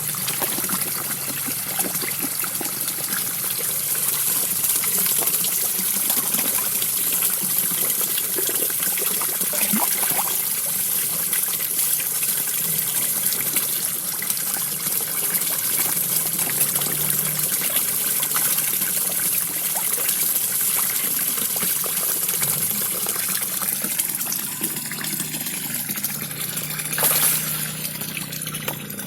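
A small waterfall splashing steadily into a koi pond, a constant gushing trickle of water. There is one brief louder splash near the end.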